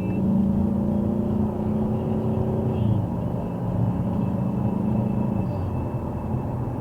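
Car engine and tyre rumble heard from inside the cabin through a dashcam's microphone: a steady low hum that steps down in pitch about three seconds in.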